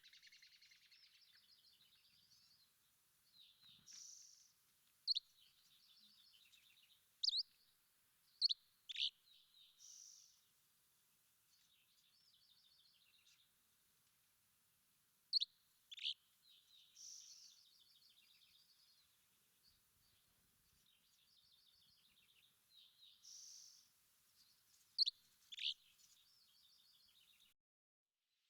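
Songbirds singing: sharp, steeply falling chirps, often in pairs, between stretches of fast, high trills and short higher notes. The song stops abruptly near the end.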